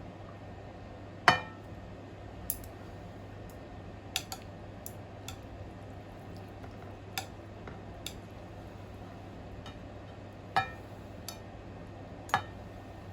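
Chopsticks clicking and clinking against a bowl and dish at scattered intervals while noodles are picked up, over a faint steady low hum.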